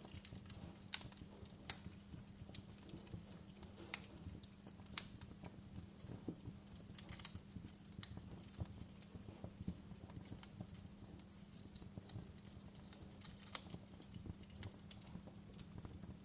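Wood fire crackling in a fireplace: irregular sharp pops and snaps over a low steady rumble of the flames, with a few louder pops scattered through.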